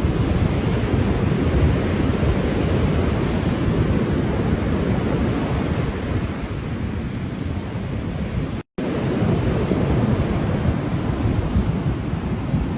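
Ocean waves washing in a steady rush of surf, heaviest in the low range, swelling and easing slightly. About two-thirds of the way through, the sound drops out completely for a split second.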